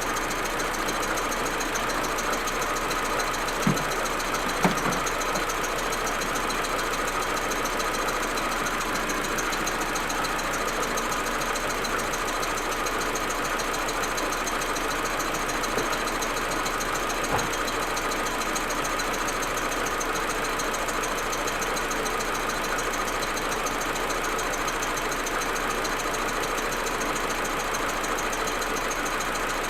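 Audi A4 1.8T turbocharged four-cylinder engine idling roughly, with a few sharp knocks: three about 4, 5 and 17 seconds in. This is the stuttering idle and misfiring that the owner gets when the engine is cold.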